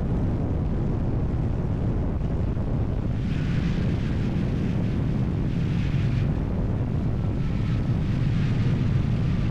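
Steady low rumble of wind buffeting the microphone, with a vehicle-like drone underneath.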